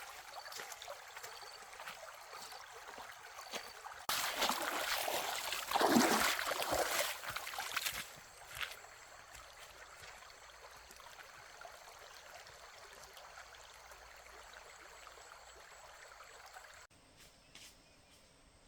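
Running water, an even rushing noise that turns much louder for about four seconds starting about four seconds in, then settles back. Near the end it cuts to a quieter outdoor background.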